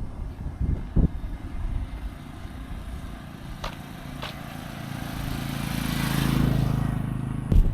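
A motor vehicle drives past, its engine hum growing louder to a peak about six seconds in and then falling away. Short thumps sound about a second in and again just before the end.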